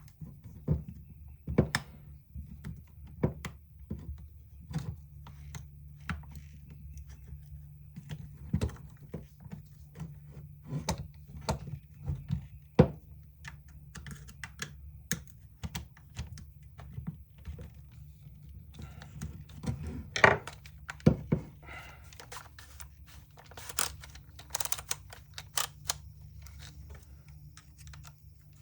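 Irregular light clicks, taps and knocks of hand tools and screws against the plastic housing of a DeWalt DCD780 cordless drill as it is unscrewed and taken apart, with a few louder knocks about twenty seconds in, over a faint steady low hum.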